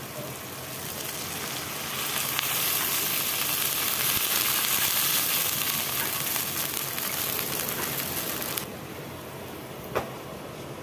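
Small fish in tomato masala sizzling in a kadai, the hiss turning much louder about two seconds in as water goes into the hot pan for the curry. It cuts off suddenly near the end, followed by a single click.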